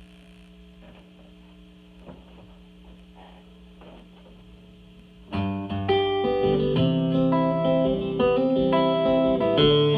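A faint steady hum, then about halfway through a guitar starts the song's intro, its picked notes ringing and changing.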